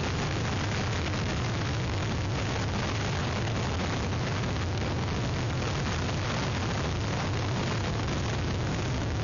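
Hurricane-force wind blowing hard across an outdoor webcam microphone: a steady, dense rush with a heavy low rumble from the gusts buffeting the mic.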